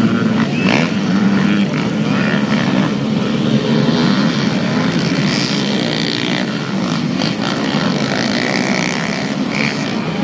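Motocross dirt bike engines running with a steady drone.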